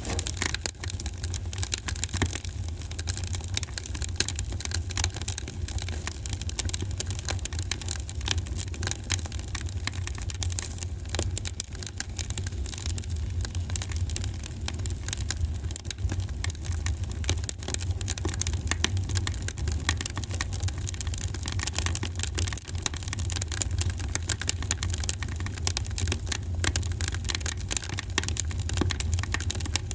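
Wood fire burning in a fireplace: a continuous run of irregular crackles and small pops over a steady low rumble of the flames.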